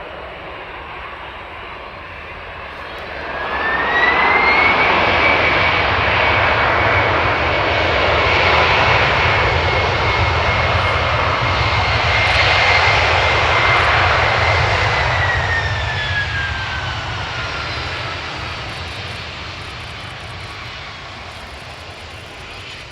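Boeing E-767's twin turbofan engines spooling up into reverse thrust on the landing roll. A rising whine a few seconds in leads to loud engine noise with a high, steady whine for about ten seconds. The whine then falls as the engines spool back down and the noise fades.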